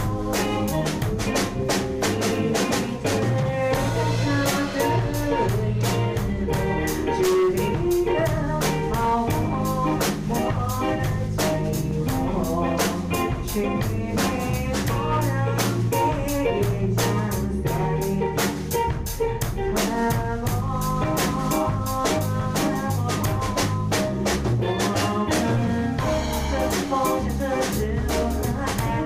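A band playing an instrumental passage of the song in rehearsal: a drum kit keeps a steady beat with regular cymbal and snare hits under bass and melodic instruments.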